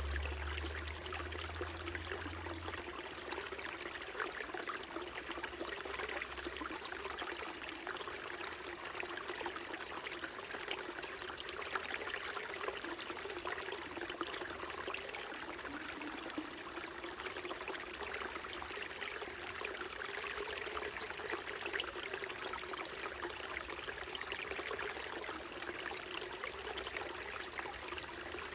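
Small mountain stream flowing and trickling steadily over rocks, with a faint low rumble in the first few seconds.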